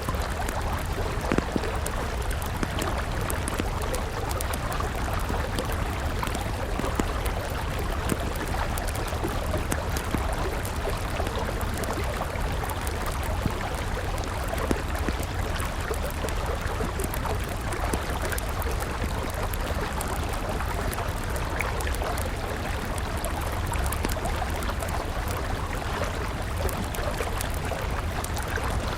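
A river running steadily, with a wood campfire crackling and giving occasional sharp pops over it.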